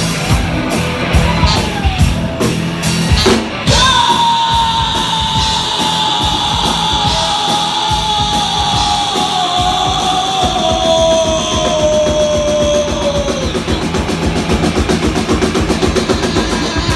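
Live rock band playing the loud closing climax of a song with drums and electric guitar. About four seconds in, a long held note starts and slowly slides down in pitch, and the drums then build into rapid fills toward the final stop.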